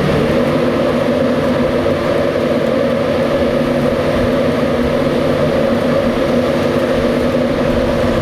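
Diesel train passing, its locomotive engine running steadily.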